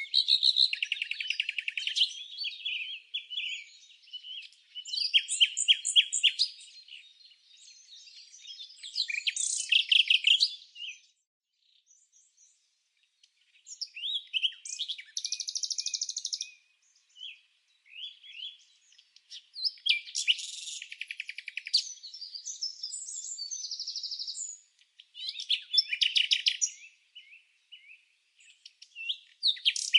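Songbirds singing in separate phrases of rapid high chirps and trills, with brief pauses between phrases, the longest about eleven seconds in.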